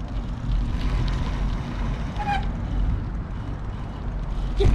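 Bicycle riding heard through a bike-mounted camera: steady low rumble of wind on the microphone and tyres on the path. There is a brief squeak about two seconds in and a sharp knock near the end.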